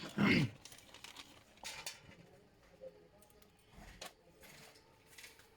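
A brief voice at the start, then faint, scattered light clicks and rustling of clutch plates being handled during a motorcycle clutch rebuild.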